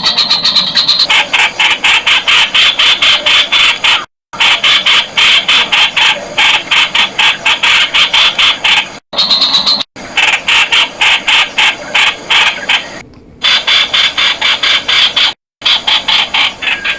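Streak-eared Bulbul (Blanford's Bulbul) calling: a loud, fast run of short harsh notes, several a second, that cuts off abruptly a few times and starts again.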